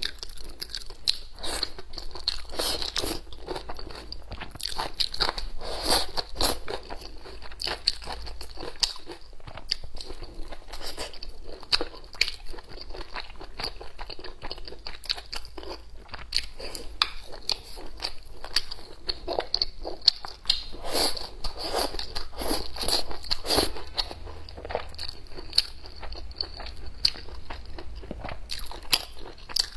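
Close-miked eating: biting and chewing home-cooked food, a dense, irregular run of small crunches and mouth clicks.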